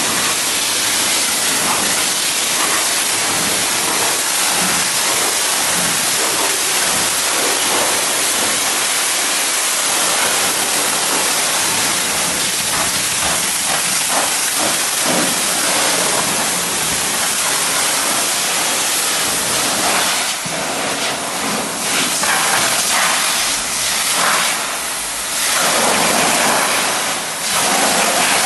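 Loud water spray hissing steadily, as from a car-wash spray wand, rising and falling in strength over the last several seconds as the spray shifts.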